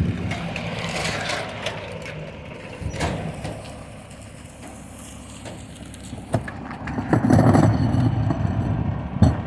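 Recycling truck running, its noise easing off in the middle and building up again, with a few sharp knocks and a loud bang near the end.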